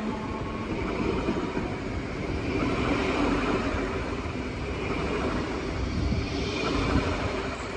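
German regional electric multiple unit of the DB class 424/425/426 family (nicknamed 'Quietschie', 'squeaky') running on the track: a steady rumble of wheels on rail with faint held tones over it.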